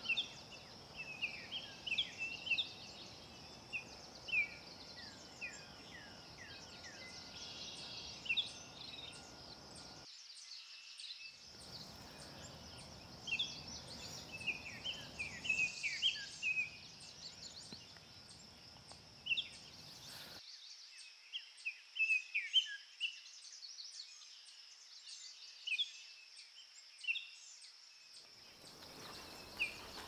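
Wild birds chirping and calling: many short, high notes, often sliding down in pitch, scattered throughout, over a steady high hiss.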